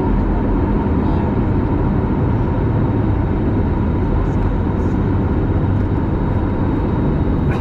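Airliner jet engines running, a loud steady rumble with a faint steady whine held through it.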